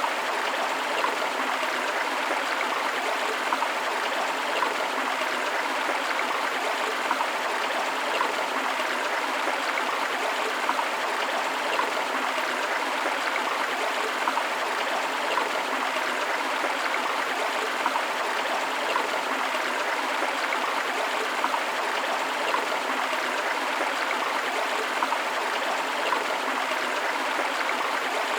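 River water rushing steadily over rocks, an even hiss-like flow with small splashes and gurgles now and then.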